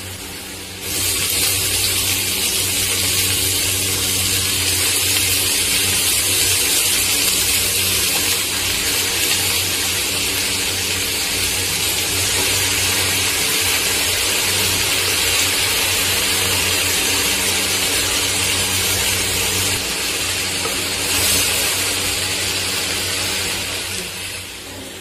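Freshly washed small amaranth greens (siru keerai) sizzling in hot oil in a clay pot. A steady, loud hiss starts about a second in as the wet leaves go in and fades near the end.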